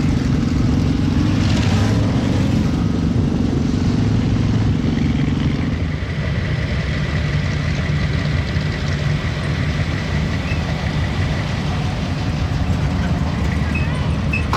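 A motor vehicle engine running steadily at close range; part of its hum drops away about six seconds in, leaving a lower, steady running sound with a faint thin whine.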